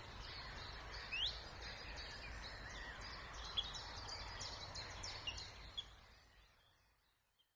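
Several songbirds calling and singing together in a spring marsh chorus of short high chirps and trills, with one sharp rising note about a second in, over a steady low background rumble. The whole sound fades out over the last two seconds.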